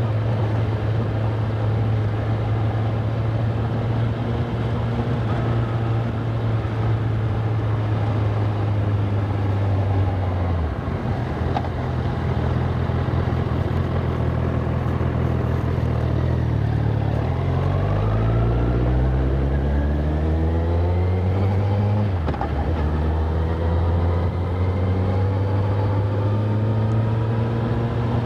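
Honda CBR1000RR SP superbike's inline-four engine heard from onboard while riding: a steady cruise, a drop in engine pitch about ten seconds in, then the revs climb with a rising pitch under acceleration and fall sharply at a gear change about three-quarters through before settling back to a steady cruise. Some wind noise rushes over the microphone.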